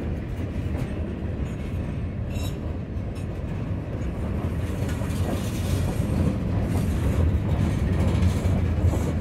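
Freight train of gondola cars rolling past close by: a steady low rumble of steel wheels on rail with a few clicks over the rail joints, growing a little louder toward the end.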